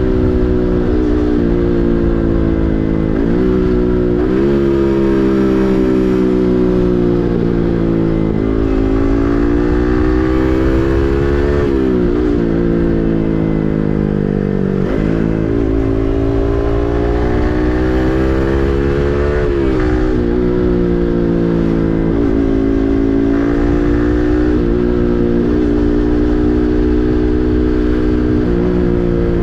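Yamaha MT-15's 155 cc single-cylinder engine through an SC Project full system exhaust, running under way. It climbs in pitch as it pulls and drops sharply at each gear change, about eight times, with wind rush underneath.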